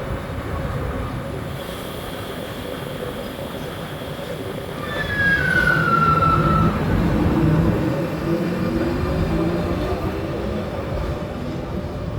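Train running on the rails with a steady rumble, louder from about five seconds in. A brief high squeal falls in pitch for a second or two, typical of wheels or brakes on the rails.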